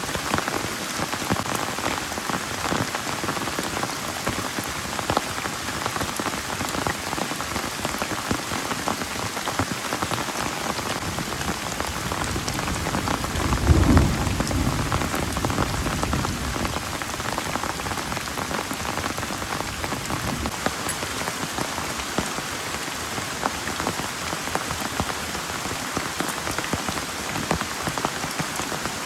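Heavy rain falling steadily, with many individual drop hits close by. About halfway through a low rumble swells and fades over a few seconds.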